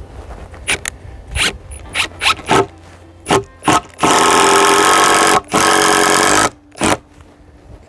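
Cordless drill driving screws: several short trigger bursts of motor whine, then two longer runs of about a second and a half and a second, and one last short burst near the end.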